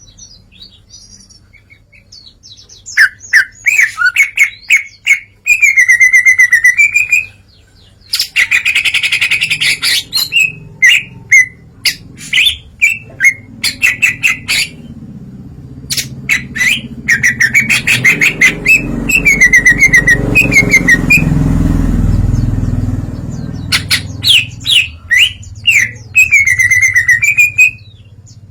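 Cucak ijo (green leafbird) singing loudly in rapid, varied phrases of chirps, trills and swooping whistles, with short pauses between bursts, running through its learned repertoire of song and mimicry. A low rumble swells and fades about two thirds of the way through.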